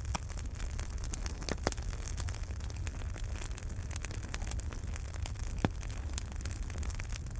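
Wood fire burning in a fireplace: a steady low rumble with scattered sharp crackles and pops, two of them louder, about one and a half and five and a half seconds in.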